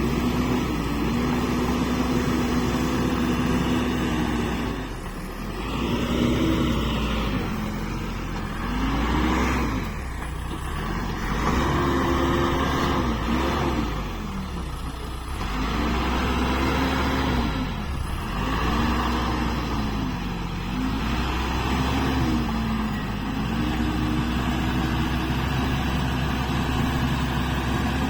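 Backhoe loader's diesel engine working under load, its pitch repeatedly sagging and climbing back every two to three seconds as the digging loads the hydraulics.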